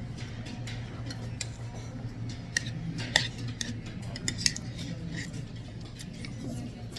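Spoon and chopsticks clinking against bowls at a meal, with scattered light taps and a few sharper clinks, over a steady low hum.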